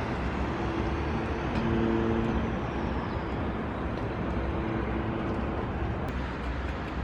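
Steady vehicle running noise with a low rumble, and a faint pitched whine that is strongest about two seconds in and fades out a little past halfway.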